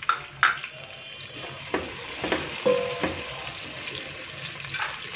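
Sliced tomatoes sizzling in hot oil with fried onions while a wooden spoon stirs them, knocking and scraping against the pot about half a dozen times.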